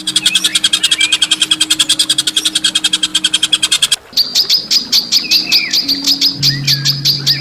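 Songbird giving harsh, rapid rattling calls, about a dozen notes a second. It breaks off a little past halfway and starts again as a second rattle with a steadier, higher ring.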